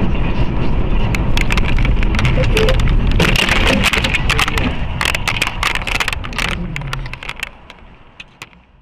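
Car driving noise, a loud steady rumble and hiss, with a dense run of sharp clicks and knocks in the middle. The sound fades away near the end.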